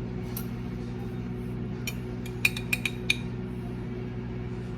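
Several light clinks of a kitchen utensil against dishware, bunched between about two and three seconds in, over a steady low hum.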